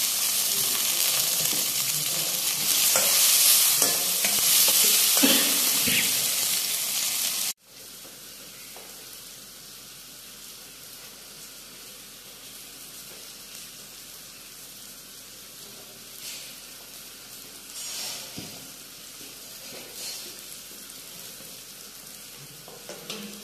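Chopped onions, tomatoes and green chillies sizzling loudly in a steel kadai as they are stirred with a steel ladle. About seven seconds in the sound cuts off abruptly to a much quieter stretch with a few light knocks.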